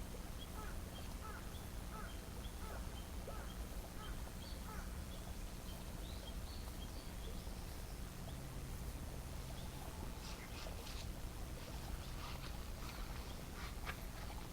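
Outdoor ambience with a steady low rumble and a bird calling in short repeated chirps, followed about ten seconds in by a run of sharp clicks.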